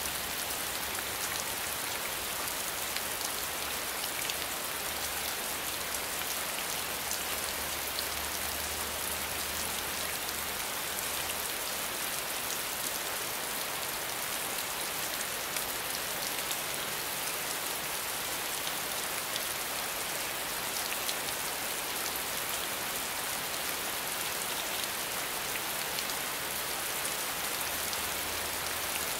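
Steady rainfall, an even hiss with a dense scatter of individual drops ticking throughout.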